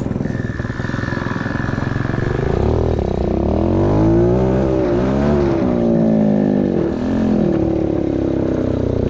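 Pit bike engines running. In the middle seconds one revs up and down, its note rising and falling over a steady lower engine note.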